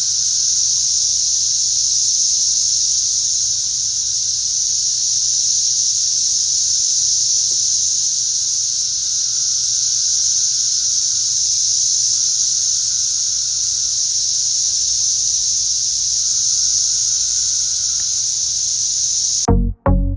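A dense chorus of cicadas, a loud, steady, high-pitched drone with no breaks. Near the end it cuts off abruptly and a few loud music beats start.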